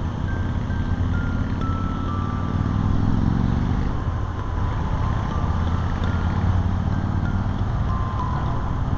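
Outdoor public chime being played: a string of clear single notes, one after another, stepping down in pitch, over a steady low rumble.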